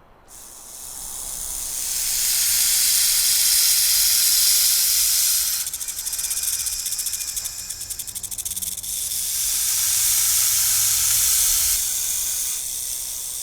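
An animal hissing: one long, breathy hiss that swells in, flutters rapidly for a few seconds in the middle, then steadies again before fading.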